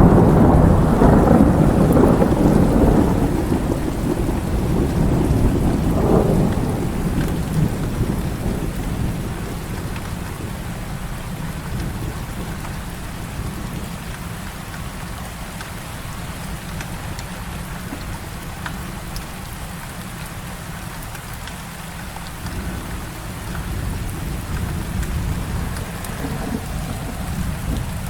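Heavy rain falling steadily, with a long roll of thunder that is loudest at the start, swells again about six seconds in, then dies away. A fainter rumble rises near the end.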